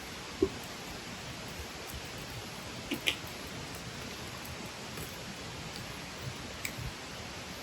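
Wood campfire burning with a steady soft hiss and a few sharp crackles: the loudest about half a second in, a quick pair around three seconds, and a smaller one near the end.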